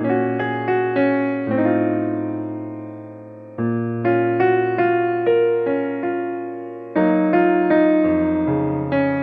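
Background piano music: a slow, gentle tune of struck notes that die away over held bass notes, with new chords coming in every second or two.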